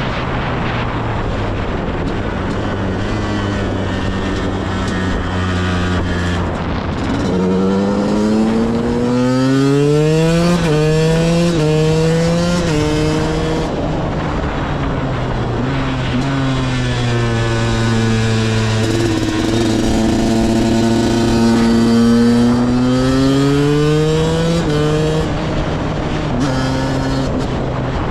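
KTM 125 EXC two-stroke single-cylinder dirt bike engine on the move. It runs steady at low revs at first, then revs up through several quick gear changes. It settles, pulls up again in a longer rising sweep, and the revs drop back near the end.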